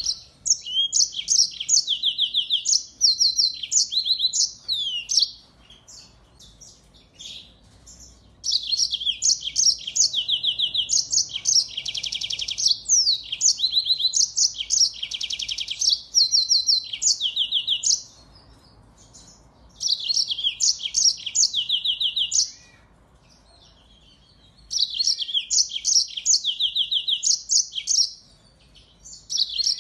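A small songbird singing fast, high-pitched warbling phrases made of rapid trills and buzzy notes. The song comes in four bouts, with pauses of one to three seconds between them.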